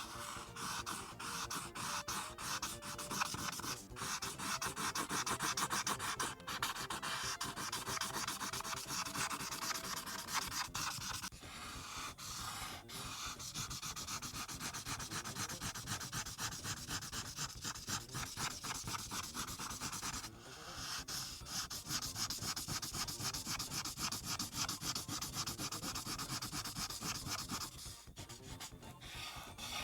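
Marker tip scribbling rapidly back and forth on paper, filling in a large area with fast short strokes. It stops briefly a few times, once near the middle and again near the end.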